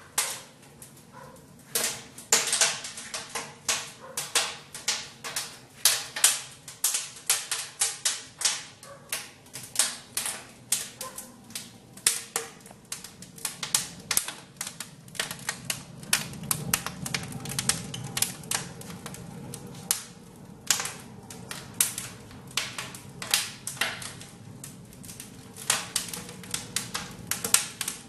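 Wood fire crackling in a fireplace: a steady run of irregular sharp pops and snaps.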